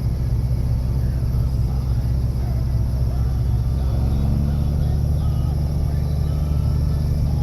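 Farm tractor engine running steadily under way, a continuous low drone.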